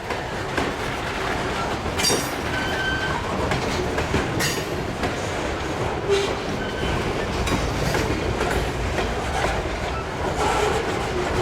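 Freight train's covered hopper cars rolling past: a steady rumble of wheels with irregular clacking over the rail joints and a few brief wheel squeals.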